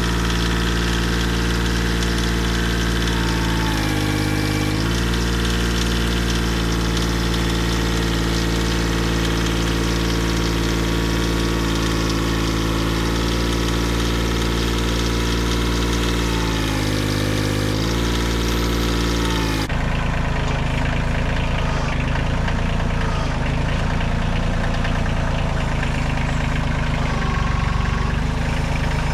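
An engine running steadily, its pitch dipping briefly as if under load about four seconds in and again just before the two-thirds mark. About two-thirds of the way through the sound changes abruptly to a rougher, duller engine note.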